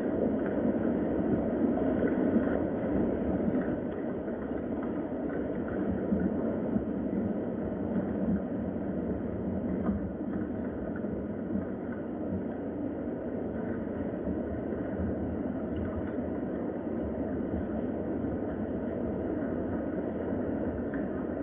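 Steady rain, an even, dull wash of noise that holds at one level throughout.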